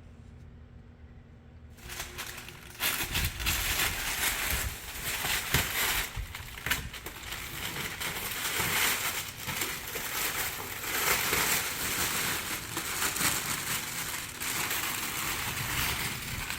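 Dense, irregular crinkling and crackling that starts about two seconds in and gets louder at about three seconds.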